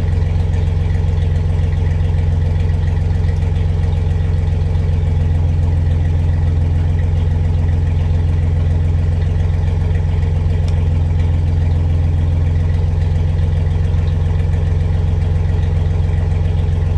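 Vehicle engine idling steadily, with an even low hum.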